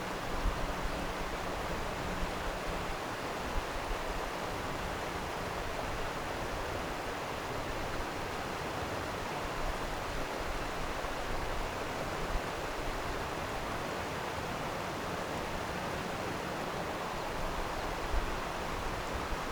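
Stream water flowing steadily over rocks, an even rushing sound.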